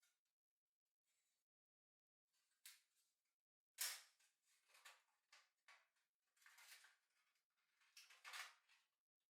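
Metal parts of a small folding solo fire pit being handled and slotted together: a run of light clinks and scrapes, the sharpest about four seconds in.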